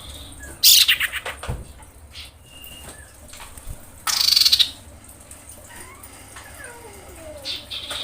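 Female common iora calling. A loud, rapid, rattling chatter lasting about half a second comes just under a second in, and another comes about four seconds in, with faint short whistled notes between them. The title presents it as the call a female in breeding condition gives to attract a male.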